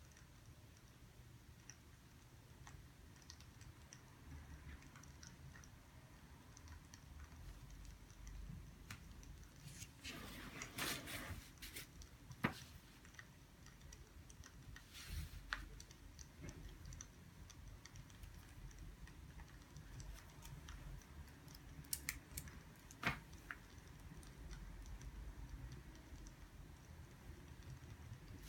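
Faint desk sounds of someone studying: scattered light clicks and taps, with a paper-like rustle lasting about a second and a half around ten seconds in and a shorter one around fifteen seconds, over a low steady room hum.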